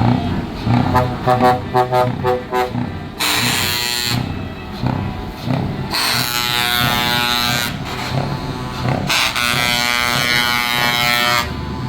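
Truck air horns sounding: a run of quick short toots, then three long blasts that start and stop abruptly.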